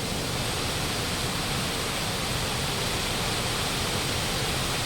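Waterfall rushing: water pouring down over rocks as a steady, even roar of noise.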